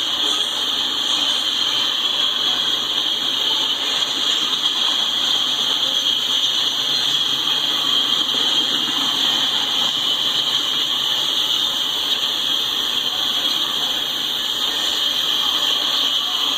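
Double-stack freight cars rolling past: a steady wheel-on-rail noise with a constant high-pitched ring over it.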